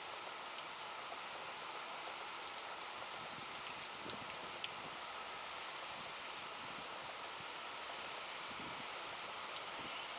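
Rain falling steadily during a thunderstorm, with sharp taps of individual drops striking close by, one louder tap about four seconds in. No thunder is heard.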